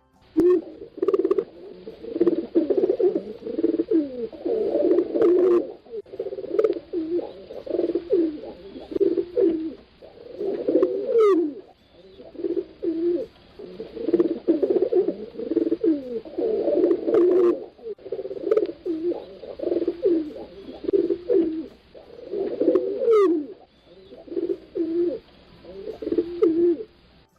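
Pigeons cooing: low, rolling coos repeated in phrases a few seconds long, with short pauses between them.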